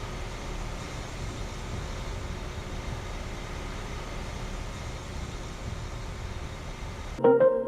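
Central air conditioner condensing units running outdoors: a steady whir of fan and compressor with a faint constant hum. Music cuts in abruptly near the end.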